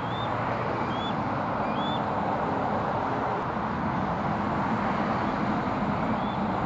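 Juvenile bald eagle calling: short high notes that rise then fall, three about a second apart and one more near the end. They sound over a louder steady rumble like road traffic.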